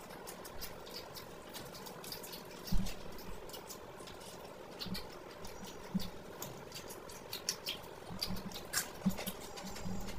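Close-miked chewing and tearing of whole fried fish: many small irregular crunches and wet mouth clicks, with one louder thump about three seconds in.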